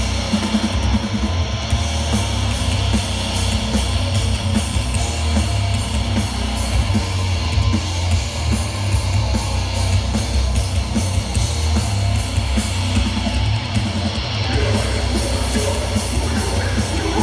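Live death metal played loud and without a break: electric guitars over a heavy low end.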